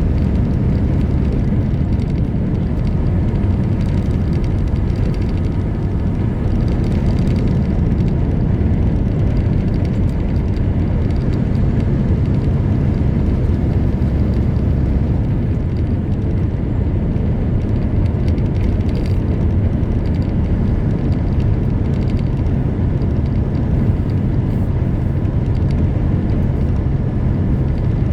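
Semi truck's diesel engine and road noise heard from inside the cab: a steady low drone while driving.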